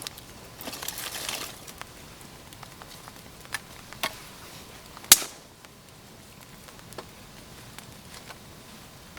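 Rustling followed by scattered sharp clicks and knocks, with one loud sharp click about five seconds in.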